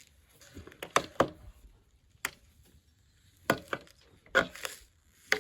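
A tool striking and chopping into a water heater's sheet-metal casing: about nine sharp blows in uneven groups, some in quick pairs.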